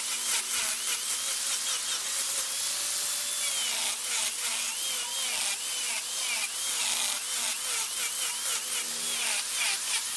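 Wood lathe turning a wooden blank while a cutting tool bites into it: a steady scraping hiss with crackles, and a faint squeal that wavers up and down in pitch.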